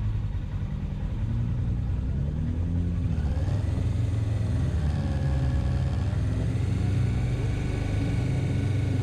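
Suzuki GS500F's parallel-twin engine running at low revs as the motorcycle rolls slowly along, its pitch rising and dipping a little now and then.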